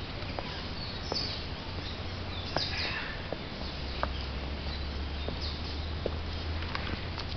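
Short, high animal chirps, a few at a time, over a steady low hum, with scattered faint clicks.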